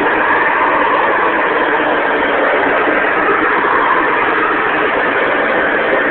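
Hoover Convertible Deluxe upright vacuum cleaner running steadily, a little bit louder with its motor freshly cleared of caked-up dust. The owner hears it showing signs of its age and thinks the motor will need fixing.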